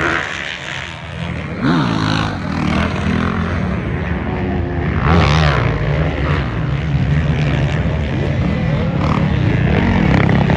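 Off-road racing engines running hard on a motocross track, revving so their pitch rises and falls several times, most clearly about two and five seconds in.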